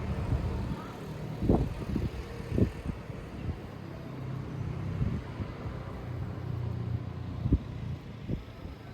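Wind buffeting a microphone outdoors: a steady low rumble broken by a few sudden gusty thumps.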